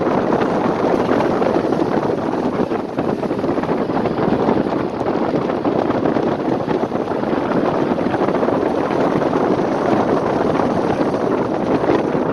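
Steady rushing road and wind noise of a moving car.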